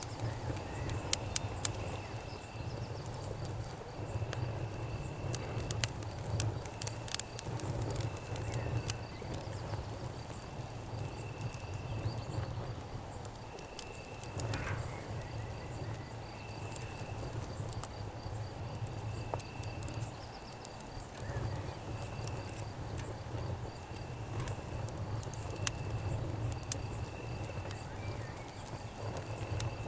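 Campfire crackling with scattered sharp pops, over crickets chirping in short trills that repeat every second or two, and a steady low rumble underneath.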